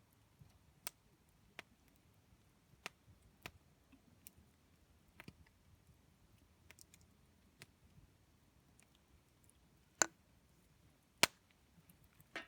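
Campfire crackling: irregular sharp pops and snaps of burning wood over a quiet background, with two louder pops about ten and eleven seconds in.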